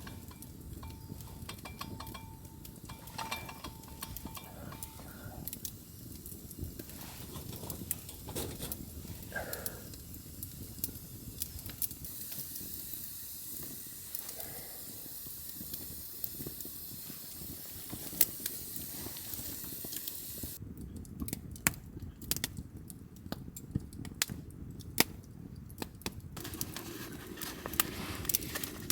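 Wood campfire crackling with many sharp pops, over a steady sizzling hiss.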